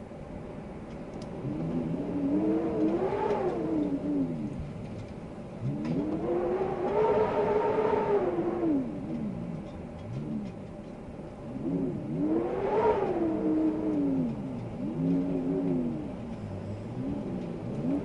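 Wind howling in gusts: a moaning, pitched tone that rises and falls with each gust, about five times, over a steady rush of air.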